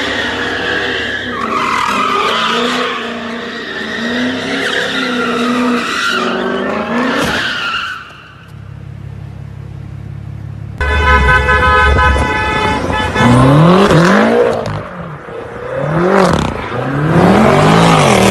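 Sports-car engines revving with tyres squealing. About 11 seconds in, a car horn sounds for about two seconds. After that an engine revs up and down over and over.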